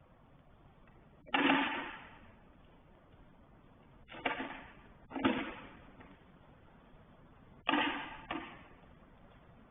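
A series of sudden knocks or bangs at uneven intervals, about six in all, each dying away with a short ringing tail.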